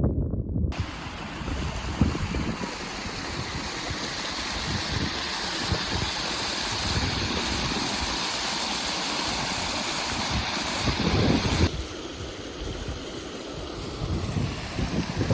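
Rushing water of a stream or small waterfall, with wind gusting on the microphone. Near the end the water grows softer and the wind rumble grows louder.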